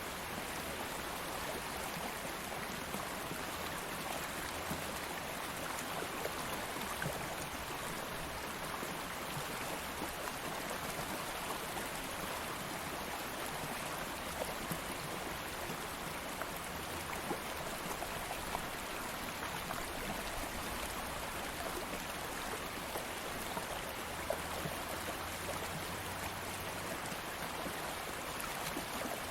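Steady rushing and babbling of a flowing stream, with small splashes and droplets ticking through it.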